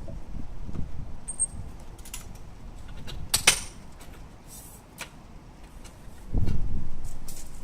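Scattered sharp metallic clicks and clinks of handled hardware, the loudest a ringing clink about three and a half seconds in, followed near the end by a low rumble lasting about a second.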